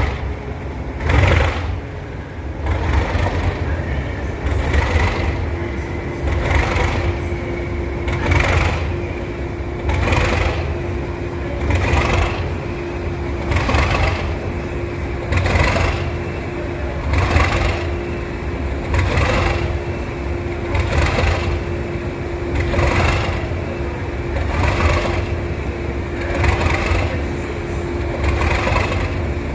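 English Electric 12CSVT V12 diesel engine of Class 37 locomotive 37516 running just after a cold start, with a regular surging beat about every two seconds. A steady hum joins in about five seconds in.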